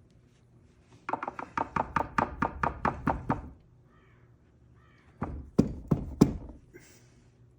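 A quick run of sharp knocks, about six a second for two and a half seconds, then a pause and four harder knocks. This is the 1959 Mercury ignition lock cylinder being tapped on a hard surface to knock a stuck top pin loose.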